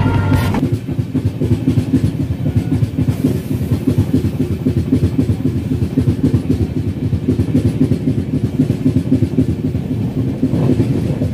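Rolling noise of the Deccan Queen's LHB passenger coach running at speed, heard from inside the coach: a steady rumble of wheels on track with a fast, even rattle.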